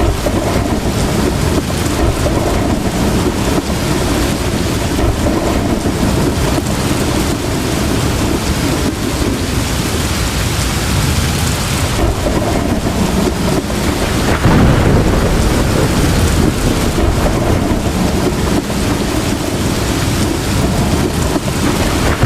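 Heavy tropical downpour hissing steadily, under a continuous low rumble of thunder that swells louder about two-thirds of the way through.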